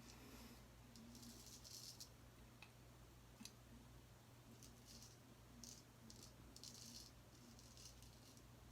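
Gold Dollar 208 straight razor scraping through lathered stubble in short, faint strokes at an uneven pace, during the second shaving pass.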